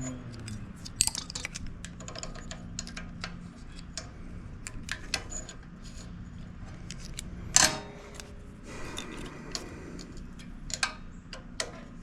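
Small hand tools clicking and clinking on metal, with one louder clank about seven and a half seconds in, while the valve clearances of a Briggs and Stratton engine are set and the adjusters tightened.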